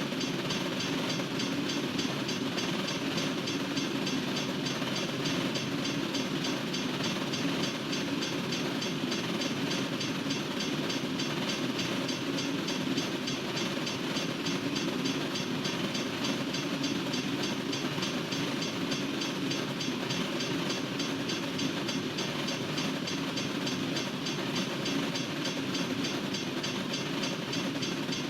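A long freight train's cars rolling steadily past a railroad crossing, with a continuous rumble and rattle of wheels on the rails.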